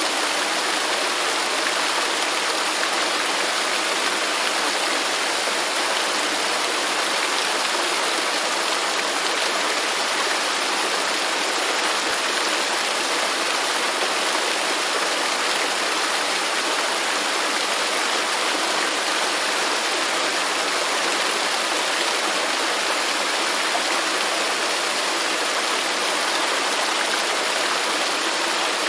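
Waterfall rushing steadily: an even, unbroken hiss of falling water with little deep rumble.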